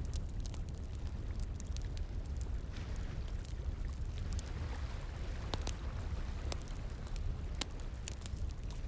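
Wood fire crackling with irregular sharp pops and snaps, over a steady low rush of flowing water.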